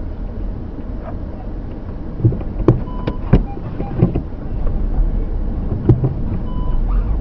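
Steady low road and engine rumble of a moving car, heard from inside, with several sharp knocks through the middle and a couple of short beeps.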